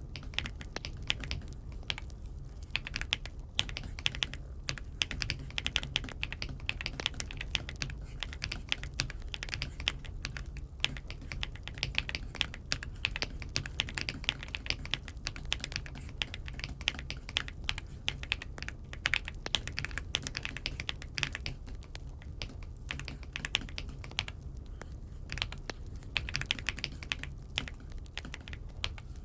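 Typing on an AULA F75 mechanical keyboard: a fast, steady stream of key clicks with brief pauses now and then, over a low steady hum.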